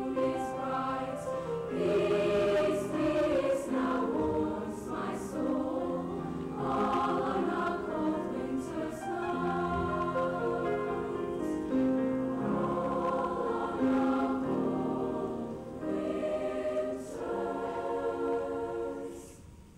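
Junior high school choir singing a song in harmony, with held chords that move from note to note. The singing stops just before the end.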